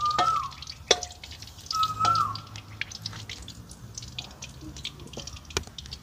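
A bird whistles two short notes about two seconds apart, each held briefly and then dropping in pitch. A few light knocks come from a ladle against a metal wok.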